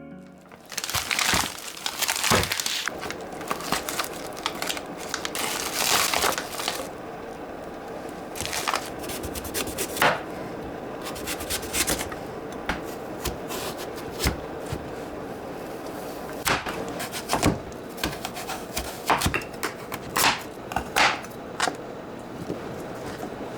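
Kitchen prep sounds: irregular clicks, knocks and rustles of utensils and packaging over a steady background hiss.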